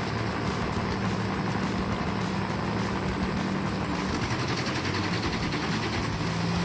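Heavy machine's engine running steadily, a constant low hum over a noisy mechanical wash.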